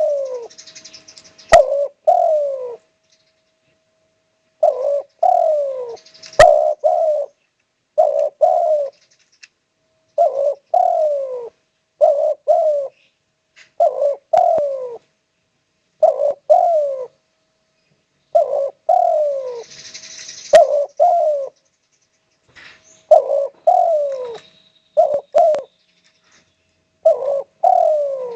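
Spotted dove (tekukur) cooing over and over: short phrases of two or three falling coos, repeated every second or two, with a few faint clicks between them.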